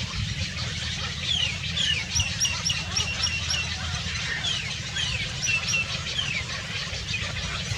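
Small birds calling: sharp, high chirps sliding downward in pitch, with a quick run of about six repeated hooked notes midway, over a steady low rumble.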